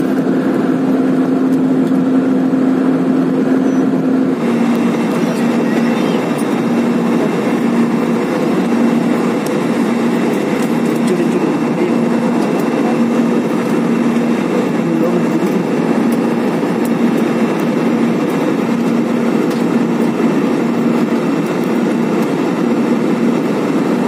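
Airliner cabin noise in flight: a steady rush of engine and airflow under a low hum. About four seconds in, the hum changes to a regular throb, roughly one beat a second.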